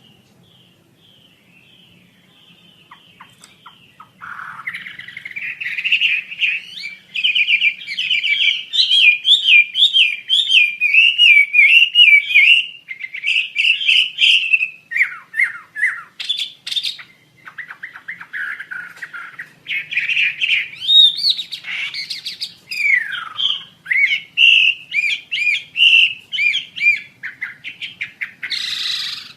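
A wambi songbird singing: faint scattered chirps at first, then from about four seconds in a loud, rapid run of varied warbling phrases with short pauses, sweeping up and down in pitch.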